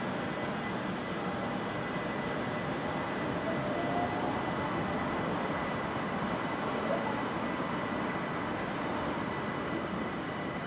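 Electric multiple-unit passenger train running on the line: a steady noise of wheels and running gear, with a faint steady high tone over it.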